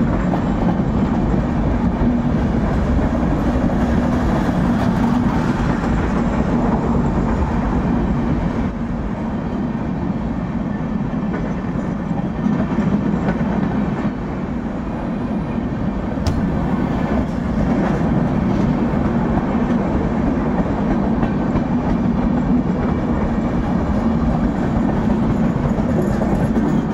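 Express train coaches passing at speed, their wheels running on the rails in a steady, loud rumble.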